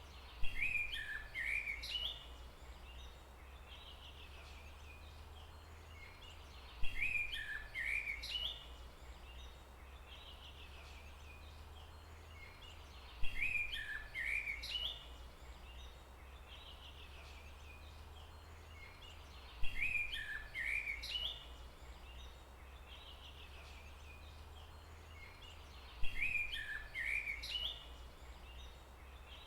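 A bird's call, a quick chattering run of notes sweeping up and down, repeats five times about every six and a half seconds, identical each time as if looped. Underneath is a steady low rumble of forest background.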